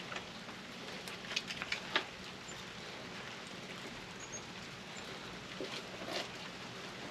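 A few light clicks and taps, clustered about one to two seconds in and again faintly near the end, from tools and small microwave parts being handled, over a steady faint hiss.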